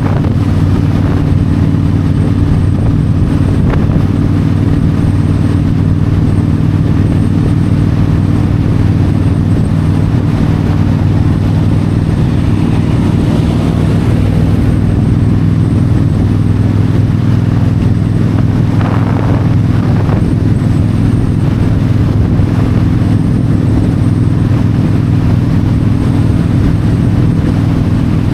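Yamaha V-Star 1300's V-twin engine running steadily at highway cruise, with wind and road noise.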